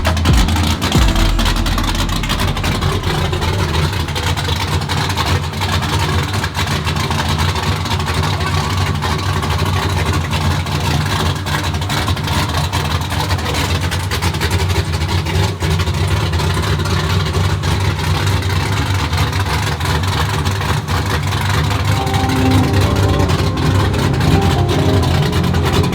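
A vehicle engine running steadily under a constant low drone, as from a truck being driven.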